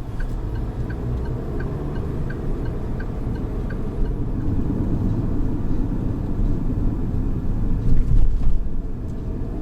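Road and tyre noise heard inside the cabin of a moving Geely Atlas 1.8T crossover, a steady low rumble. Light regular ticks come about every 0.7 s for the first four seconds, and a couple of louder bumps come from the suspension near the end.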